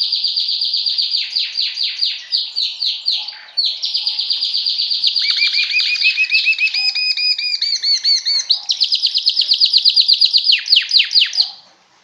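Domestic canary singing: long, rapid trills of repeated notes, switching to a new trill every second or two. A second, lower trill overlaps for a few seconds in the middle. The song stops abruptly near the end.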